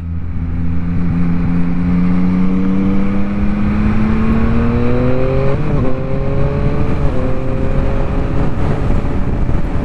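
Yamaha MT-09's inline-three engine accelerating, its pitch climbing steadily, then breaking briefly twice a little past halfway as it shifts up, and holding level after that. Steady wind noise runs underneath.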